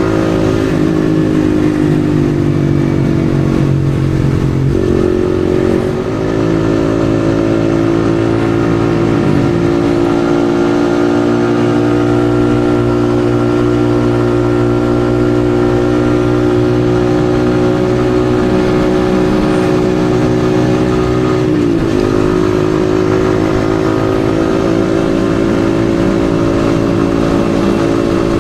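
Yamaha XSR155's single-cylinder engine running steadily at cruising speed, its pitch briefly dipping and recovering about five seconds in and again a little past twenty seconds.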